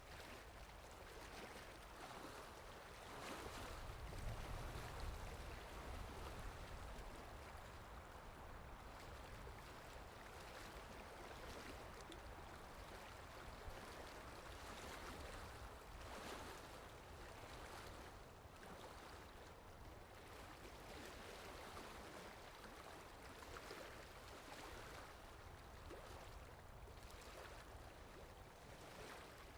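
Quiet water ambience sound effect: a steady wash of flowing water that swells and eases, with a low rumble for a few seconds near the start.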